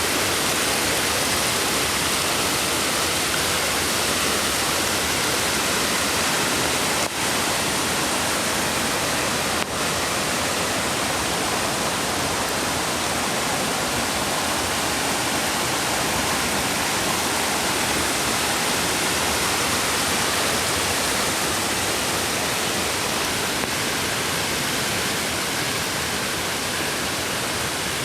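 Mountain creek water rushing steadily and loudly, with two brief dips about seven and ten seconds in.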